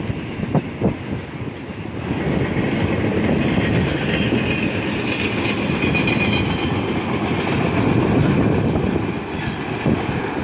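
Freight train cars rolling past at close range, the steel wheels clacking over the rail joints, with a few sharp clicks about half a second in and a faint high-pitched squeal around the middle.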